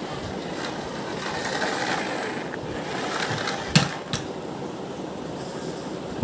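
Toy car rolling with a steady rattling rumble, and two sharp knocks a little past the middle.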